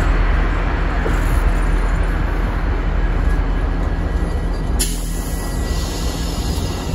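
CN diesel-electric freight locomotives rolling across a rail bridge: a steady low engine drone with the rumble of wheels on the rails. About five seconds in, a brighter hiss comes in suddenly.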